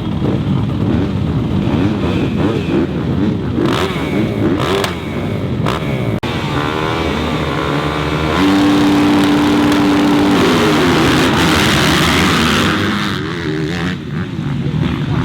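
Several motocross bikes racing, engines revving up and falling back again and again. About eight seconds in, one bike passes close holding a steady high note for about two seconds, the loudest part.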